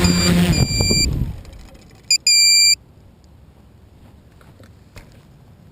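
Electronic music with repeating high beeps ends about a second in. Then an electronic beeper sounds once short and once longer and loud, about two seconds in.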